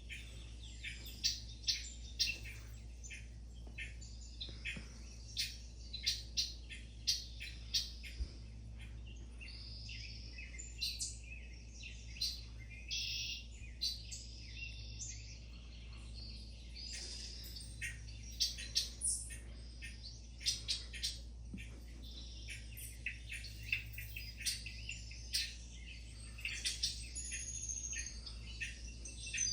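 Small birds chirping: many short, high chirps, often in quick runs, with a steady low hum underneath.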